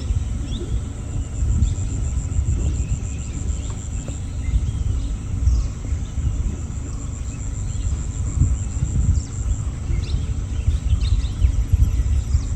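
Outdoor riverside ambience: a high, pulsing insect trill and scattered short bird chirps over a loud, uneven low rumble.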